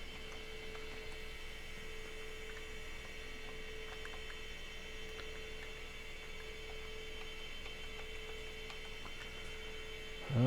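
Steady electrical hum with a constant mid-pitched tone and a high whine, broken by a few faint clicks. Right at the end comes a brief, loud, voice-like sound that rises in pitch.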